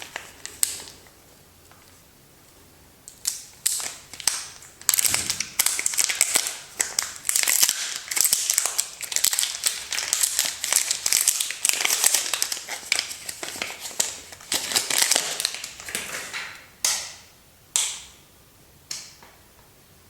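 Soap packaging being opened and crumpled by hand: a few single crinkles, then a long dense run of crackling and rustling, then a few last crinkles near the end.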